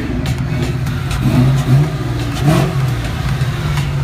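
The V8 engine of a 2007 Chevrolet Corvette running, with a deep rumble and its pitch going up and down as the throttle is blipped a few times.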